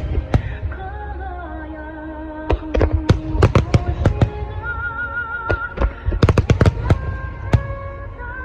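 Fireworks shells bursting in a rapid string of sharp bangs, thinning out for a couple of seconds near the start and then coming thick again from about two and a half seconds in. Music with a held, wavering melody plays underneath.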